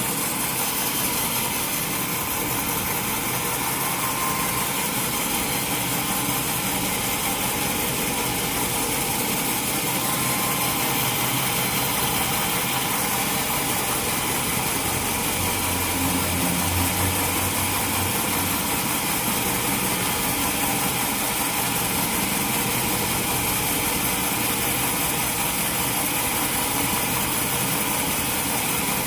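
Sawmill machinery running steadily, with a brief deeper hum about halfway through.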